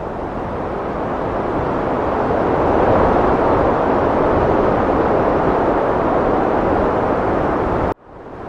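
Heavy wind blowing in a steady rushing roar that swells to its strongest about three seconds in. It cuts out abruptly for a moment near the end and then rises again.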